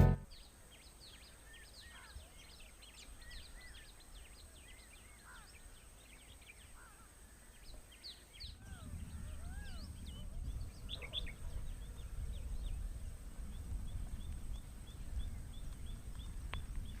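Many birds chirping and calling in short quick notes, with a few lower arched calls about halfway, over a faint outdoor hush and a steady thin high tone. A low rumble comes in about halfway and stays.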